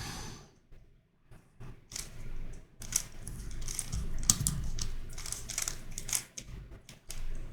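Plastic clicking and clacking of a Corner Helicopter 2x2 twisty puzzle being turned and twisted in the hands, in quick runs of short clicks.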